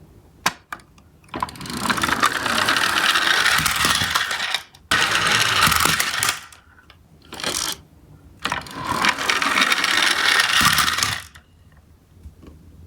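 Small toy trucks rattling as they roll fast over a hard surface: three stretches of clattering, each a few seconds long, with a couple of sharp clicks before the first.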